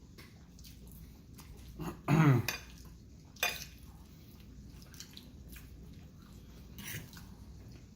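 Eating utensils clicking and scraping against food containers in a few short, scattered knocks, the loudest about three and a half seconds in. About two seconds in there is a short voiced sound from the eater.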